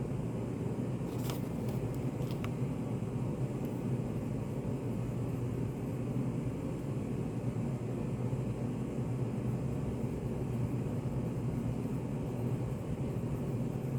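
Study-café room ambience: a steady low hum with a few faint clicks, one about a second in and another at two and a half seconds.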